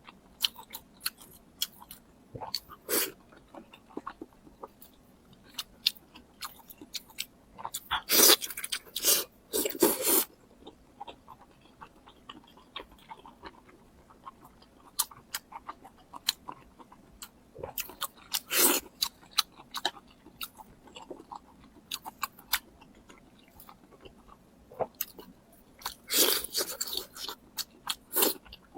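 Close-miked chewing and biting of food, with many small mouth clicks and louder crunching bites about eight to ten seconds in, around eighteen seconds, and again near the end.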